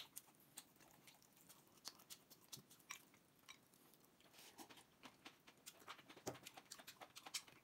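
Quiet close-up eating sounds: a person chewing pickled napa cabbage (suancai) and stewed pork, soft wet smacks with scattered small clicks, busier near the end.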